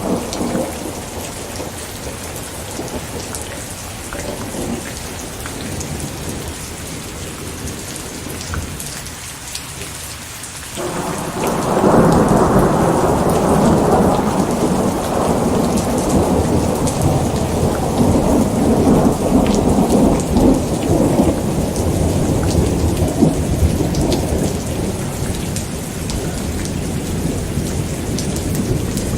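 Steady rain falling, with a long roll of thunder that breaks in suddenly about a third of the way through and rumbles on, slowly easing toward the end.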